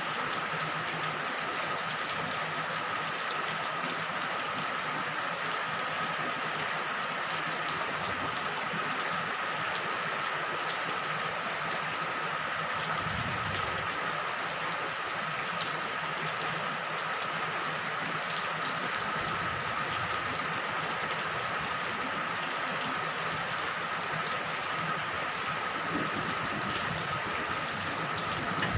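Steady rain falling, an even hiss without pause, with a faint steady high tone running through it.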